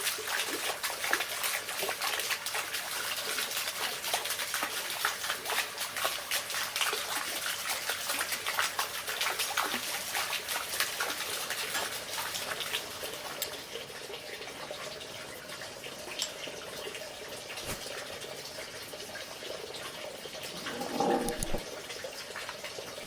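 Water trickling and splashing with many small crackles, easing after about 13 s. A short pitched call about 21 s in.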